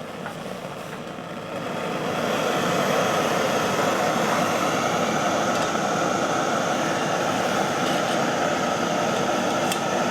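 Heavy rain falling on the roof of a backcountry hut, a steady dense rushing that swells louder about two seconds in and then holds.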